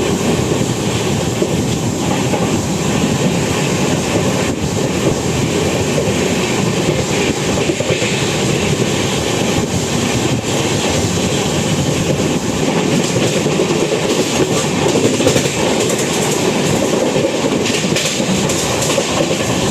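Steady, loud rush and wheel clatter of trains at speed, heard from aboard an Indian Railways sleeper coach, with the Kovai Express passing close by on the adjacent line.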